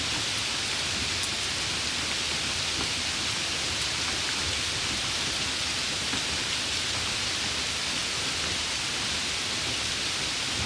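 Steady summer rain falling, an even hiss that holds at one level throughout.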